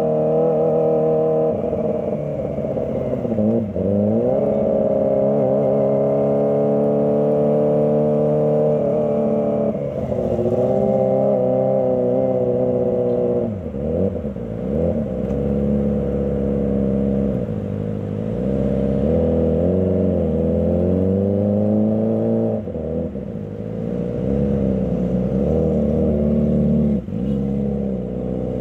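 Kawasaki ZX25R's 250 cc inline-four engine revving as the bike is ridden, its pitch rising and falling repeatedly with several sudden drops as the throttle is rolled off and on.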